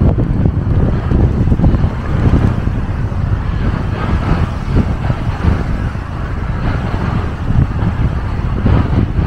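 Strong wind buffeting the microphone in steady, loud low gusts, after a typhoon.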